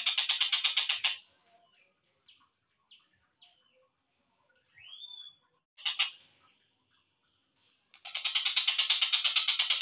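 Stork-billed kingfisher (tengkek buto) calls played back slowed down. A fast pulsing rattle of about eight pulses a second runs for the first second. Short scattered chirps and one rising whistle follow in the middle, then a brief burst at about six seconds, and the rattle starts again near the end.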